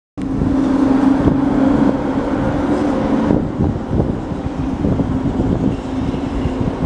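EP07 electric locomotive pulling a passenger train slowly out of a station: a steady electric hum as the locomotive goes by, which weakens after about three seconds, over the rumble and knocking of wheels on the rails as the coaches follow.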